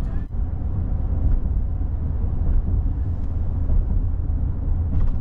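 Steady low road rumble of a car driving, heard from inside the cabin; it dips briefly about a quarter second in.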